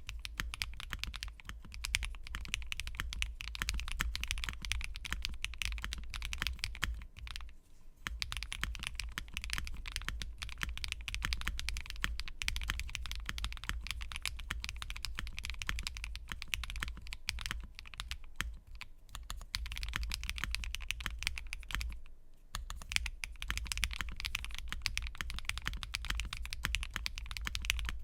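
Typing on a Laby67 mechanical keyboard with tactile Blue Topaz switches on a polycarbonate plate with full foam: a steady stream of key clacks, broken by two short pauses, one about a third of the way in and one near the end.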